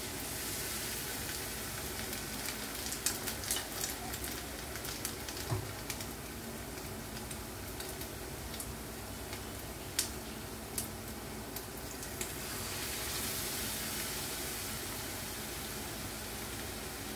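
Goat-fat and onion batter fritters frying in hot oil in a frying pan: a steady sizzle with scattered sharp pops and crackles. The sizzle grows louder near the start, as a fresh fritter of batter goes into the oil, and again about two-thirds of the way through.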